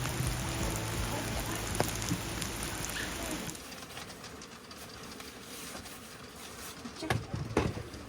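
Steady rain falling, with a low hum under it for the first few seconds. About three and a half seconds in it cuts abruptly to quieter rain, and a few knocks come near the end.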